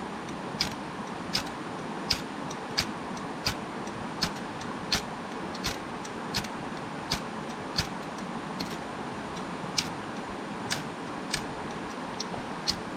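Steady rushing of river water, with a sharp click repeating about every 0.7 seconds.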